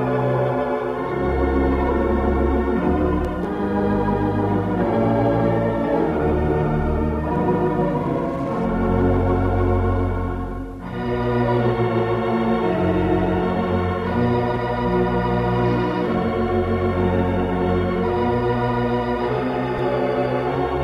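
Wurlitzer theatre pipe organ playing sustained chords over deep pedal bass notes. There is a brief lull about halfway through, then the full sound comes back.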